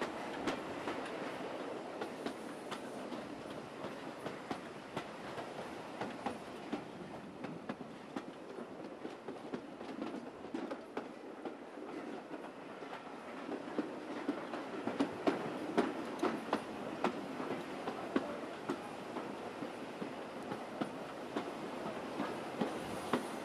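Steam-hauled passenger train running along the line: a steady rumble with frequent sharp clicks of the wheels over the rail joints, busier and louder a little past halfway.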